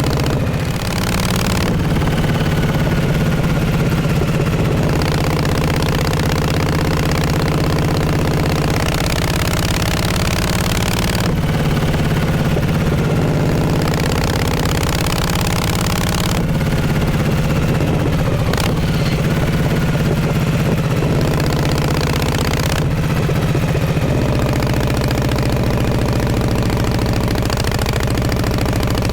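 Exhaust of a 1948 Harley-Davidson Panhead V-twin running under way at a steady pace, its note stepping to a new pitch about four times. A steady rush of wind and road noise lies under it.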